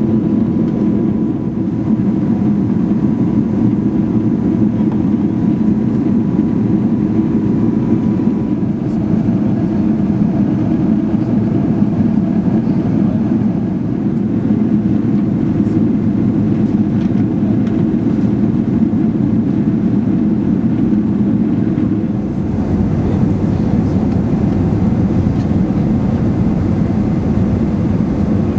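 Steady cabin noise inside an Airbus A380 in flight: engine and airflow noise as an even, deep rumble, with a faint steady tone during the first several seconds. About 22 seconds in, the rumble dips briefly and then comes back heavier in the bass.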